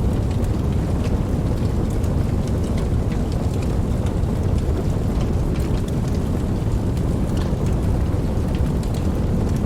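Steady rain, a dense low-heavy hiss with scattered sharp drop ticks over it.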